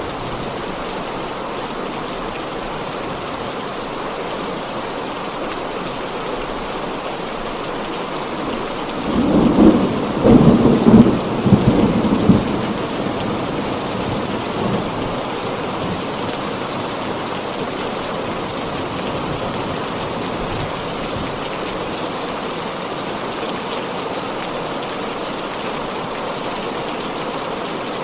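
Heavy rain falling steadily, with a roll of thunder about nine seconds in that rumbles for around four seconds before fading back into the rain.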